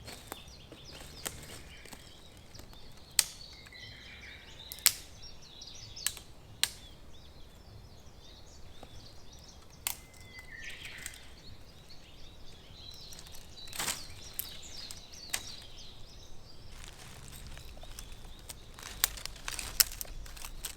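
Wood campfire crackling, with scattered sharp pops, about a dozen, irregularly spaced, over a faint outdoor background. Birds chirp faintly now and then.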